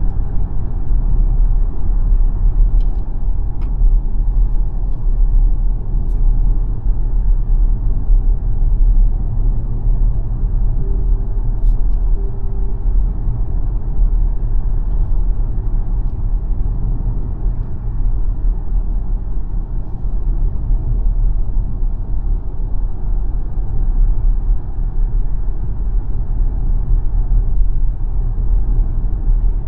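Steady low road and tyre rumble of the XPENG G9 electric SUV on the move, with no engine note, and a few faint clicks.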